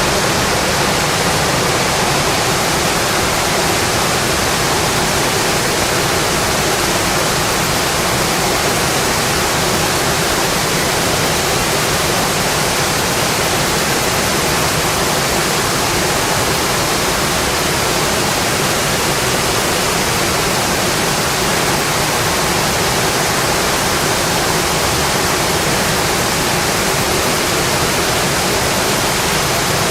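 Steady rain on a windowpane, a dense even hiss that does not change.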